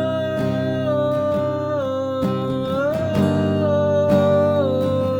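A sung folk-pop song with strummed acoustic guitar. The voice holds long notes that step down in pitch.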